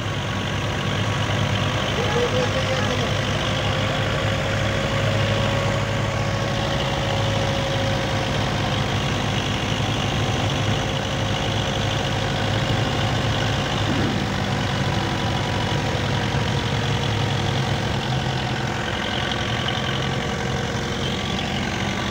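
Tractor engine idling steadily, with a faint steady higher tone running above it for about twelve seconds from roughly two seconds in.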